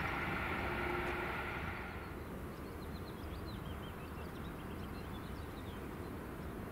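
Regional electric multiple unit running away down the line, its rumble and steady whine fading over the first two seconds. Then small birds chirping in many quick, short high calls.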